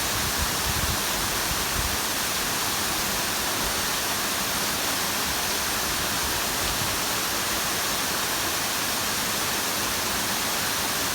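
Waterfall: a steady, unbroken rush of falling water, an even hiss spread from low to high with no pauses or changes.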